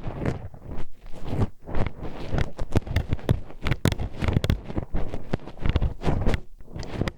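Metal hairpin poked and scraped inside an ear-shaped microphone, making close, irregular clicking and scratching, several clicks a second.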